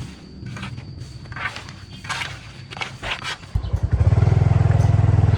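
A string of short scraping, brushing strokes, then a motorcycle engine suddenly starts running loudly close by about three and a half seconds in, with a fast, even low pulse.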